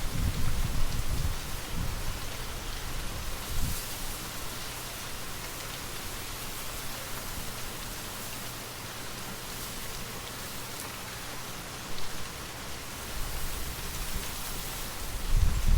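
Steady rain pattering, with light wind; a low rumble of wind swells in the first couple of seconds and again near the end.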